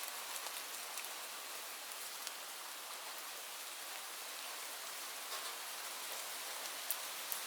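Steady rain falling, an even hiss with scattered sharp drop ticks, a few louder drops near the end.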